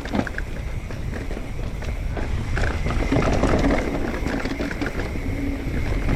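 Mountain bike rolling over a rocky trail: tyres crunching on rock and gravel, the bike rattling with many small clicks, over a low rumble of wind on the microphone. It gets somewhat louder about three seconds in.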